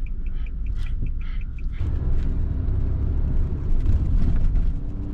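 Vehicles passing in a police-escorted convoy, their engine rumble swelling about two seconds in and staying loud. Before that, a rapid string of short high beeps, about six a second, stops.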